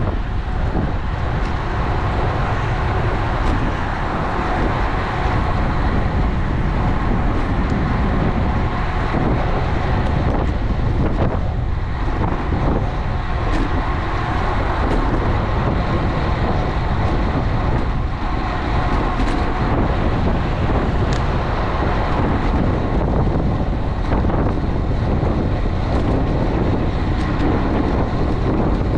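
Steady wind rushing over the microphone of an action camera on a moving road bike, with road noise underneath.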